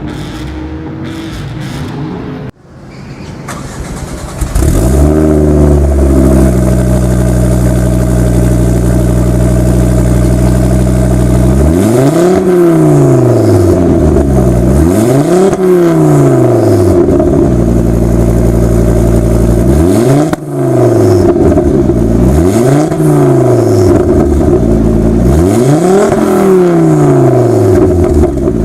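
A turbocharged hot hatch's engine, running quietly at first and then, after a short break, loud at a steady pitch for several seconds. After that it is revved up and down about five times, each rise and fall taking a few seconds.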